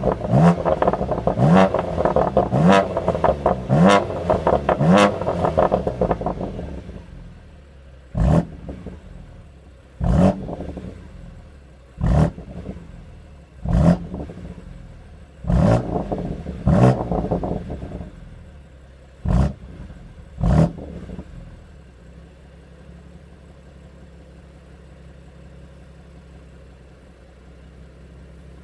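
BMW M2 Competition's twin-turbo inline-six on its stock exhaust, warm and in Sport Plus mode, revved in short blips up to about 4000 rpm: a quick run of repeated revs for the first six seconds or so, then about eight separate revs a second or two apart. It then settles to a steady idle for the last several seconds.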